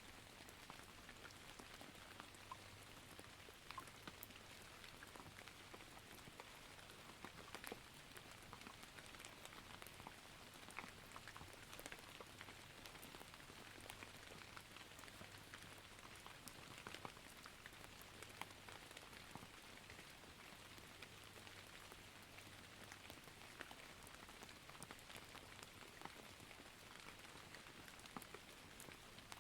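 Faint, steady rain falling in a forest: an even patter with many single drops ticking sharply.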